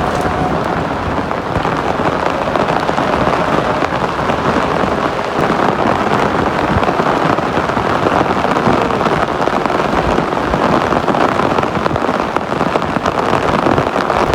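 Loud, steady hiss of falling or running water, like heavy rain.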